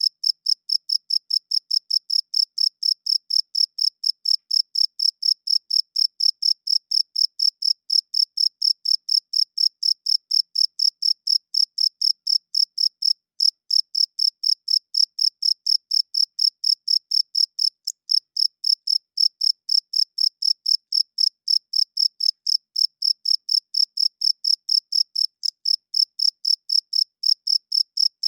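Male crickets chirping by rubbing their wings together: a steady run of high, even chirps at about four a second, pausing very briefly twice around the middle.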